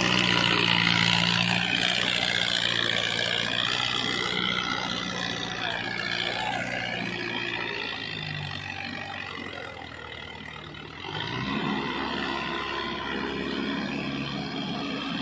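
Diesel tractor engine running, easing off gradually and then getting louder again about eleven seconds in.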